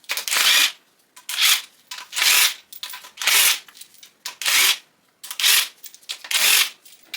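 Ratchet wrench being worked back and forth: about seven bursts of rapid ratchet clicking, roughly one a second, each on the return stroke.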